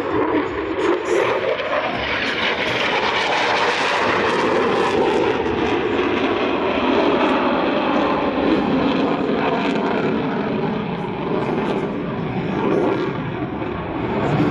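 Jet noise from a USAF F-35A Lightning II's single turbofan engine as it flies its airshow display: loud and fairly steady, with its pitch shifting in the first few seconds and the level easing slightly near the end.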